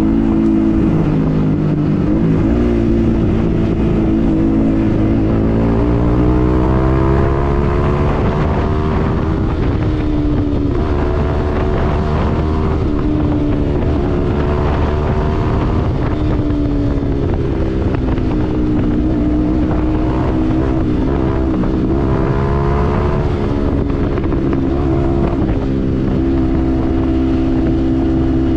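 Yamaha MT-15's single-cylinder engine through a Yoshimura aftermarket exhaust, running on the move. Its pitch rises and falls again and again with throttle and gear changes.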